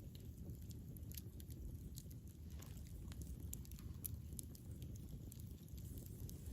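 Campfire burning: a steady low rumble of flames with frequent small sharp crackles and pops scattered throughout.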